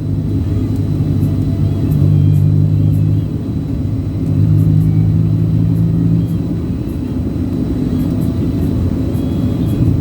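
Low rumble of a road vehicle under way, with a deep hum that swells and fades every second or two.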